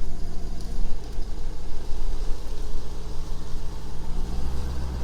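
Motor vehicle engine running steadily, a low rumble with a steady hum.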